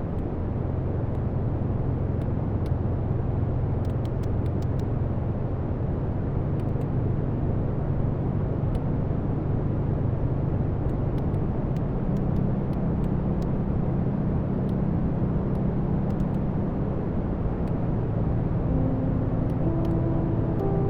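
Wood fire burning in a fireplace: a steady low rumble of flames with scattered sharp crackles and pops. About two seconds before the end, soft held musical notes begin.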